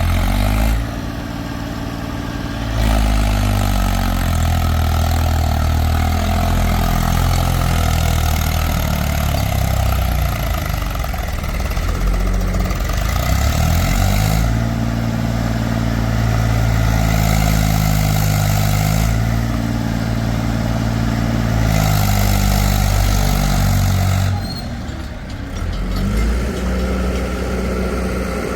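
Heavy diesel engine of working earth-moving or farm machinery running loudly, its revs rising and falling several times, easing off briefly near the end.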